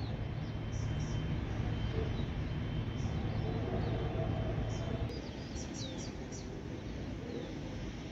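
Birds chirping in short, high calls scattered through, over a steady low outdoor rumble that eases about five seconds in.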